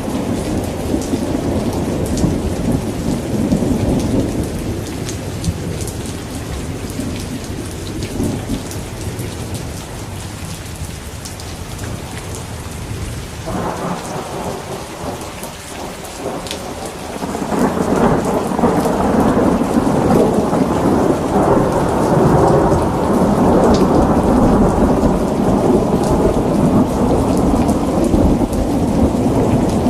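Steady rain with rolling thunder. The rumble eases off through the middle, then a louder, long peal of thunder builds a little past halfway and keeps rolling.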